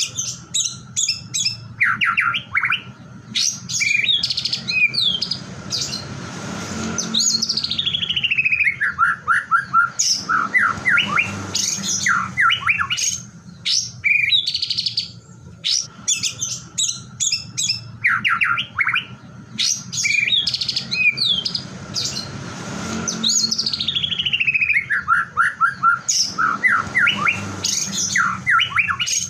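White-rumped shama (murai batu) singing a varied song of clear whistles, rapid chattering trills and long falling whistled glides. The same sequence of phrases repeats about every 16 seconds, as in a looped lure (pancingan) recording played to set other shamas singing.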